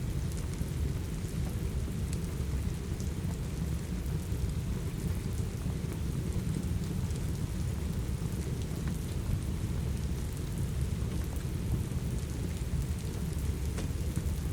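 Steady rain with a deep, even rumble underneath, and a few faint, sparse crackles from a wood fire in a fireplace.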